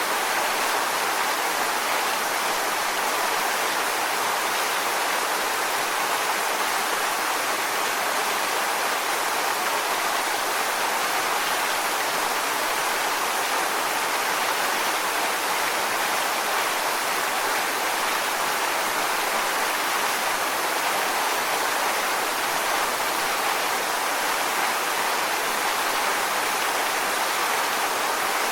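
Waterfall: a steady, even rush of falling water with no breaks or separate splashes.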